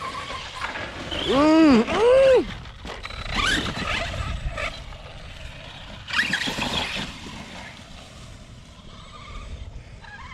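Electric motor of an Arrma RC basher truck revving in short throttle blips: two quick rising-and-falling whines about a second and a half in, then more rising revs around three and a half and six seconds in.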